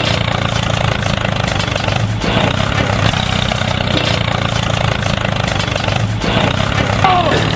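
Small motor of a homemade mini tractor running steadily under load, a continuous buzzing drone with a fine rapid rattle.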